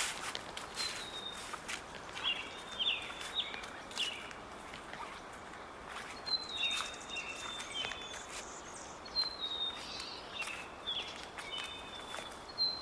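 Footsteps crunching through dry fallen leaves on a forest trail, with small birds calling throughout in short, high whistled notes that come every second or so.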